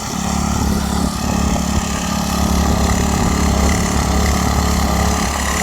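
Gas garden tiller's small engine running steadily.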